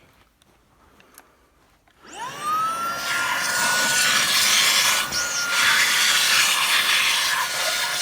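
Tineco cordless stick vacuum, fitted with its crevice tool, switched on about two seconds in: the motor whines up to speed and then runs with a steady high whine over rushing air.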